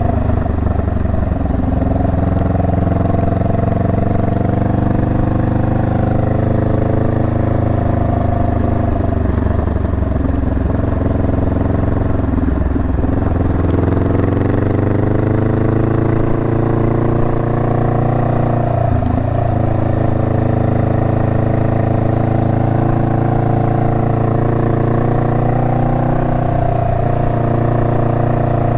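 Honda Rebel 500's parallel-twin engine running steadily under way, its pitch rising and falling slowly with the throttle. It dips briefly three times, about a third, two thirds and nine tenths of the way through.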